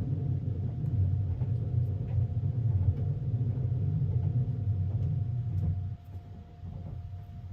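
Train running, a low steady rumble that drops in level about six seconds in.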